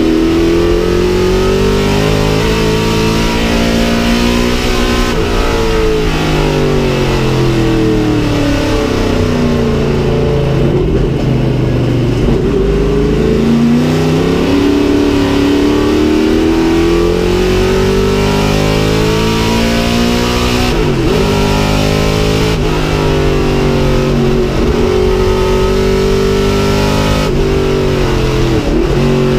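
1967 Chevrolet Camaro race car's engine at racing speed, heard from inside the cabin. The engine note climbs repeatedly with short breaks between climbs, falls away and then rises again about a third of the way in, and keeps pulling hard.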